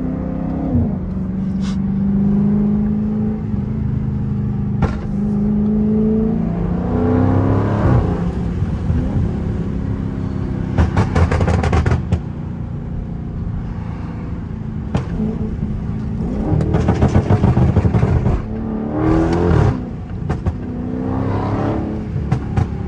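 Dodge Charger 392's 6.4-litre HEMI V8 being driven hard, its revs climbing several times as it pulls through the gears. Rapid bursts of crackling pops from the exhaust, typical of a pop tune, come about 11 seconds in and again a few seconds before the end.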